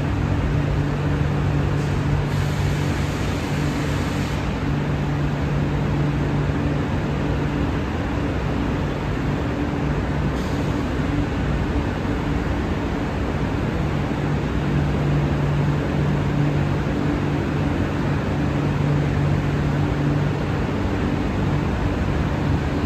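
A train standing in the station, running with a steady hum over a constant rushing noise. A brief hiss comes about two seconds in.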